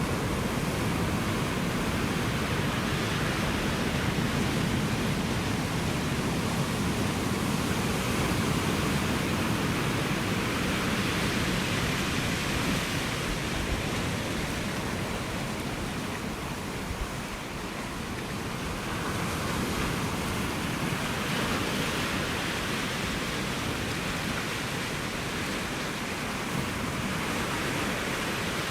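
Ocean surf: a continuous wash of breaking waves that swells and eases slowly, dipping about two-thirds of the way through and building again.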